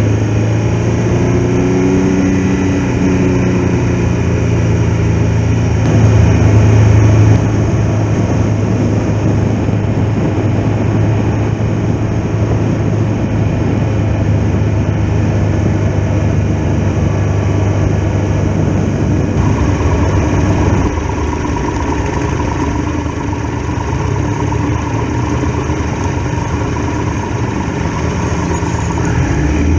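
Triumph Tiger Explorer XRx's three-cylinder engine running under way, heard from the bike over steady rushing noise, with a change in engine note about 20 seconds in.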